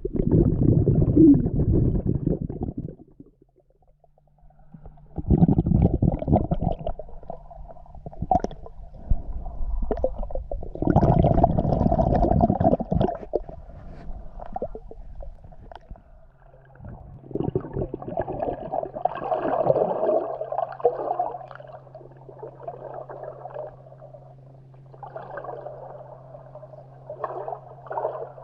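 Water heard underwater in a swimming pool: muffled surges of water noise from a swimmer's movements, coming in swells of a few seconds, with a steady low hum under the second half.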